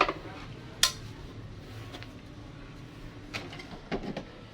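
A few sharp clicks and knocks from tools and parts being handled during work on a twin-tub washing machine: one near the start, another just under a second in, and a cluster of three or four over the last second or so, over a faint low hum.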